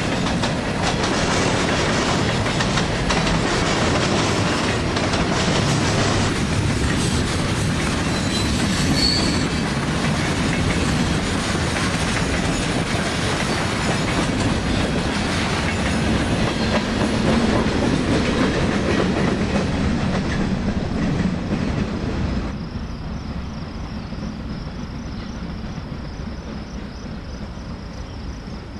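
Manifest freight train's cars rolling past, wheels clicking over the rail joints. About 22 seconds in the train noise drops abruptly, leaving a steady high chirring of crickets.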